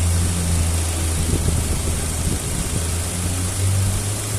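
Chevrolet Astra engine idling steadily at operating temperature, with its electric radiator cooling fan running: a steady low hum that rises slightly in pitch near the end.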